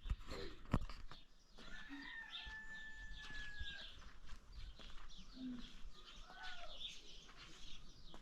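Birds chirping, with one long, steady whistle-like call about two seconds in, and two sharp knocks near the start.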